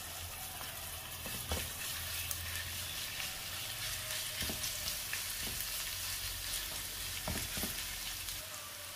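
Marinated prawns sizzling in hot coconut oil in a frying pan, spread and stirred with a spatula, with a few light scrapes and taps of the spatula in the pan.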